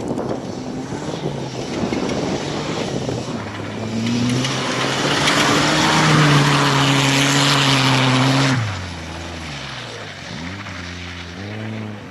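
Historic rally car engine at full throttle, growing loud and holding a steady high note. About eight seconds in its pitch and level drop sharply as it passes. It is then heard fainter, its revs rising and falling through gear changes.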